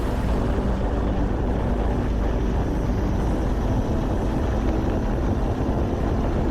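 Royal Enfield Classic 500 single-cylinder engine running steadily at cruising speed, with wind and road noise from riding.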